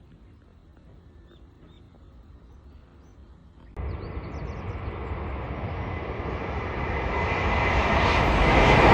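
A Hokuriku Shinkansen high-speed train approaching: after a few quiet seconds with faint bird chirps, a rushing roar starts abruptly about four seconds in and grows steadily louder, with a faint steady whine over it.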